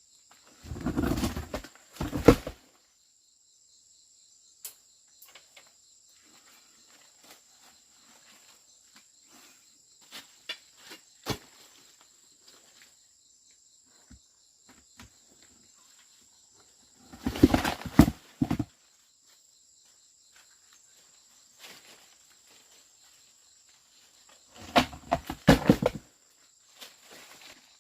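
Insects buzzing steadily in the background, broken three times by short bursts of clattering and rustling: once near the start, once past the middle and once near the end.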